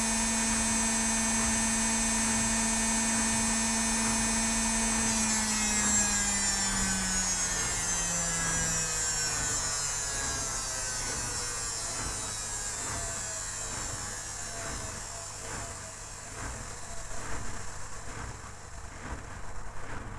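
Indesit WIL82 front-loading washing machine at full spin speed with a steady whine. About five seconds in, the motor stops driving and the drum coasts down, the whine falling in pitch and fading. Near the end only slow, repeating pulses of the turning drum remain.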